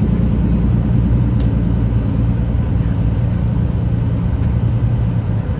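Car engine idling, a steady low rumble, with two faint ticks.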